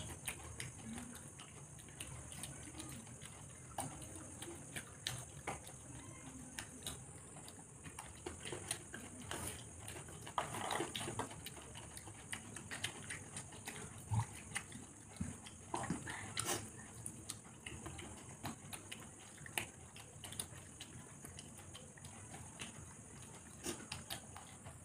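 Close chewing and lip-smacking of people eating by hand, with scattered small clicks and taps of fingers and food against steel plates, over a steady faint high hiss.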